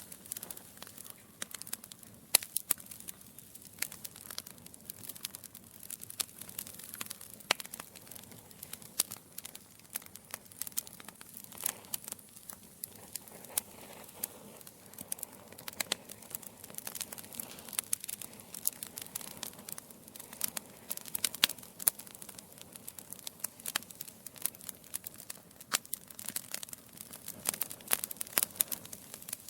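Wood logs burning in a fireplace, crackling with many sharp irregular pops over a soft hiss of flames.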